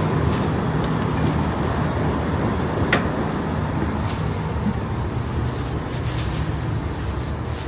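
Steady low rumble of a moving vehicle, with light rattles and a brief high squeak about three seconds in.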